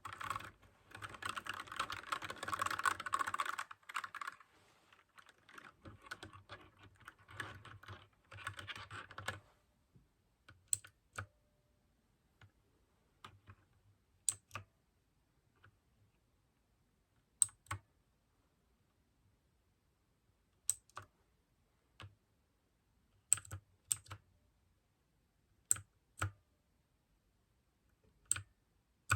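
Mechanical keyboard with clicky blue switches being typed on: fast, continuous typing for roughly the first nine seconds, then it slows to single keystrokes a second or few apart.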